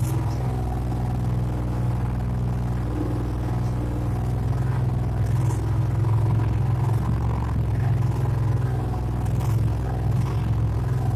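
Motorboat engine running at a steady speed: a constant low drone.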